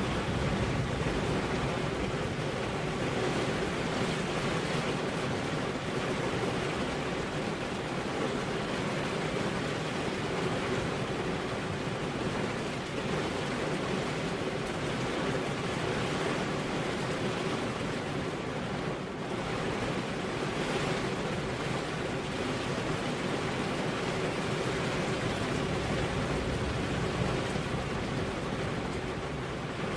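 Steady rain with wind, an even hiss with no thunderclaps, and a faint steady low tone underneath.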